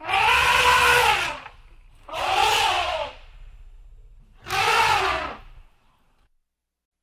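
An animal calling three times, each a loud, drawn-out, harsh cry about a second long whose pitch rises and falls.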